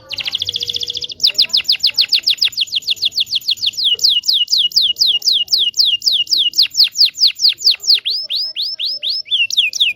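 Canary singing: a fast dense trill, then a long run of rapid high notes, each sweeping downward, about six a second. The notes slow a little around eight seconds in, then speed up again near the end.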